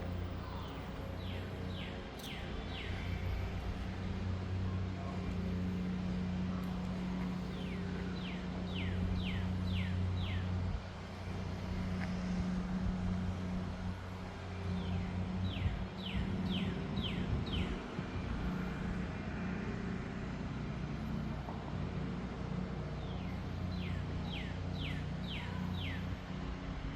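A songbird singing a phrase of five or six quick down-slurred whistles, repeated four times about seven seconds apart, over a steady low rumble of distant traffic.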